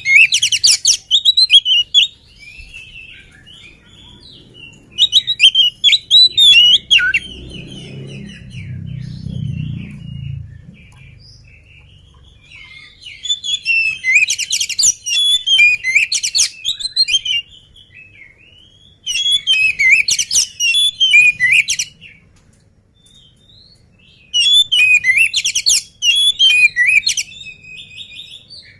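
Oriental magpie-robin (kacer) singing in five bursts of fast, varied song phrases, each two to four seconds long, with short pauses between.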